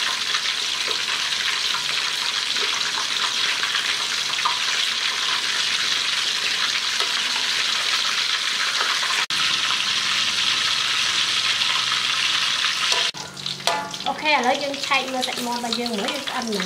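Chicken thighs frying in hot oil in a large steel wok: a steady sizzle, briefly cut off about nine seconds in and fainter near the end.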